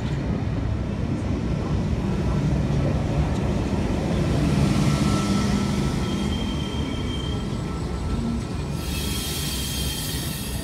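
NSW V-set electric intercity train rolling past, a steady rumble with faint high wheel squeal. Near the end a hiss joins in.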